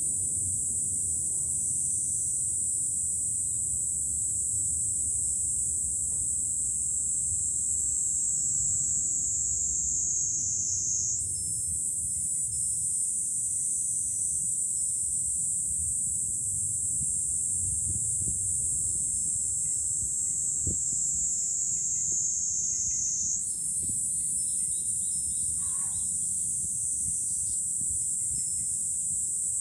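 Cicadas singing in long, high, loud phrases of about twelve seconds, each sliding slowly down in pitch before a fresh phrase starts, twice. A low rumble of wind runs underneath.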